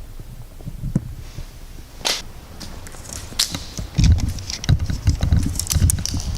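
Footsteps on a debris-strewn floor, low thuds with crunching and clicking underfoot, with a single sharp crack about two seconds in.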